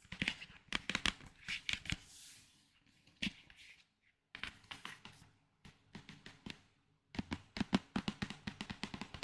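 Close-miked ASMR trigger sounds: fingers tapping, clicking and handling small objects. Irregular sharp taps at first, a brief lull in the middle, then a fast run of tapping from about seven seconds in.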